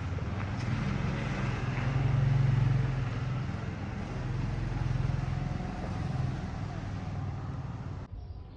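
A motor vehicle engine running with a steady low hum that swells and fades twice, then cuts off suddenly near the end.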